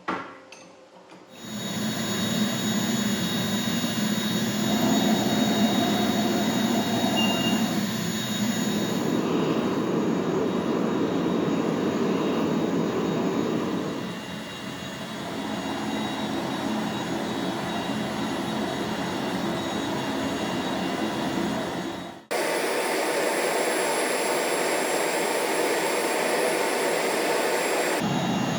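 Gas forge burner running with a steady rushing noise, starting about a second and a half in after a short click, and changing abruptly twice later on.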